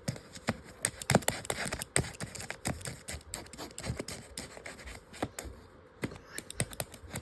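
Irregular clicks, scratches and scrapes of a small tool working on a paper-and-cardboard model phone.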